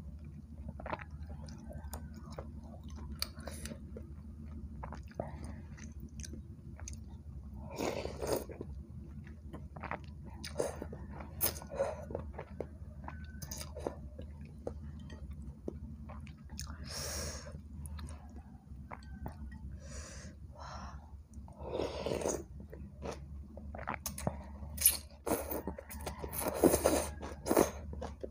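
Close-miked eating of bakso meatball soup: steady chewing of meatball and noodles, with louder spells of sipping and slurping from a wooden spoon, over a steady low hum.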